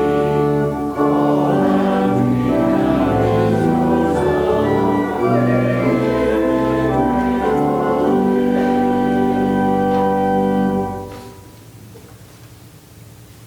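Church organ and singing voices in a slow hymn of held chords, closing on a long final chord that cuts off about eleven seconds in, leaving only faint room sound.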